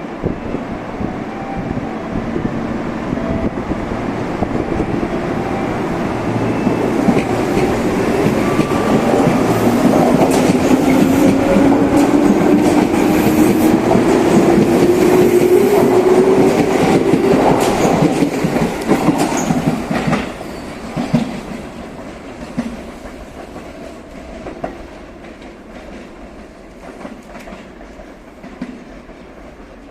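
Electric train running past, growing louder to a peak about two-thirds of the way through and then fading away. It has a motor whine that rises in pitch and the clicking of wheels over rail joints.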